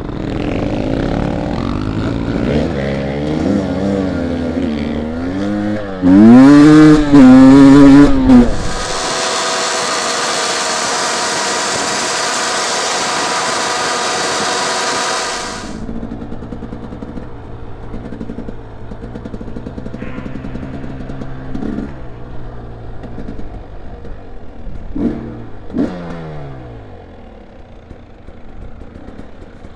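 Dirt bike engine revving up and down as the rider pushes through a muddy stretch, loudest as it passes close by. About nine seconds in, the sound turns into a steady high-revving hold for several seconds, then drops to a lower running note with a few short throttle blips near the end.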